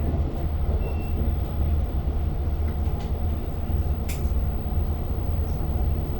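Long Island Rail Road diesel commuter train heard from inside a passenger car: a steady low rumble, with two brief sharp clicks about three and four seconds in.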